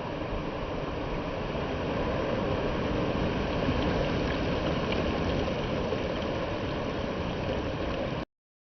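Steady rushing of sea water with wind, swelling slightly midway and cutting off abruptly near the end.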